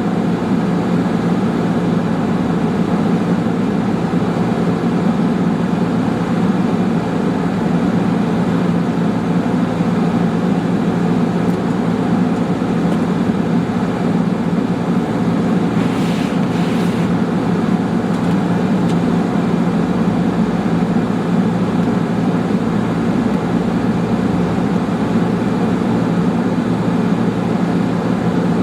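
Steady car cabin noise while driving: engine and road rumble heard from inside the car.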